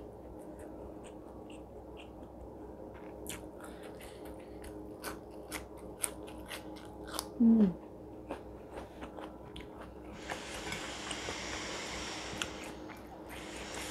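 Close-up chewing of crispy flour-fried green chillies and rice, with many sharp crunching clicks. About halfway through comes a short falling hum. Near the end comes a rustling hiss.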